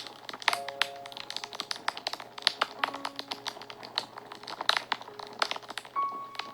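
Wood fire crackling and popping, with many sharp irregular snaps, under soft background music of slow held notes.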